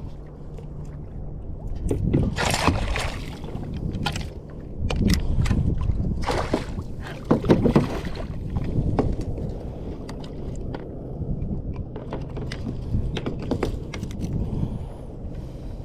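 Water sloshing and slapping against a kayak's hull in uneven surges every second or two, over a low wind rumble.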